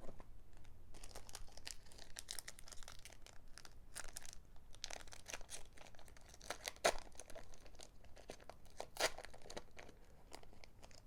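Foil Pokémon booster pack wrapper being torn open and crinkled: a dense run of crackling rustles broken by a few sharper rips, loudest at about 4, 7 and 9 seconds in.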